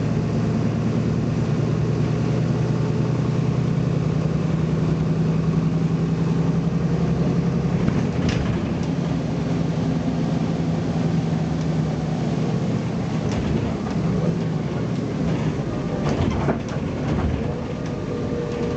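Diesel engine of a BMC Belde 220-SLF city bus running steadily under power, its note fading out about thirteen to fourteen seconds in as the engine eases off. A few short knocks and rattles follow near the end.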